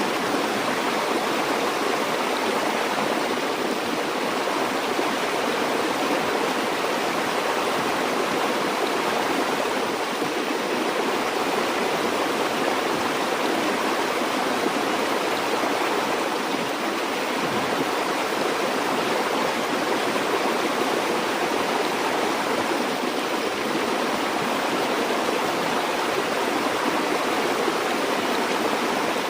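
A river or stream flowing steadily over rocks: a constant, even rushing of water.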